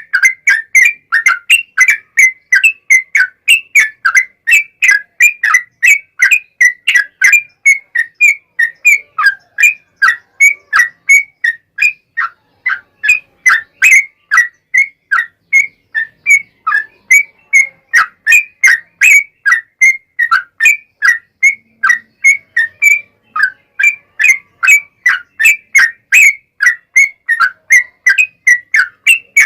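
Yellow-vented bulbul (trucukan) singing a long, unbroken run of short chirpy notes, repeated evenly at about three a second.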